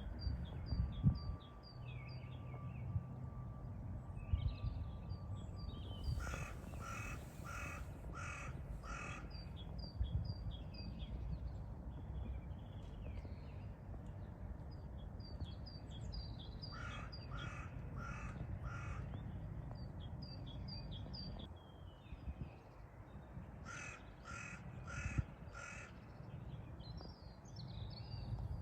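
A bird giving harsh, crow-like caws in three runs of four or five quick calls each. Between the runs come faint high chirps from small birds, over a low steady rumble.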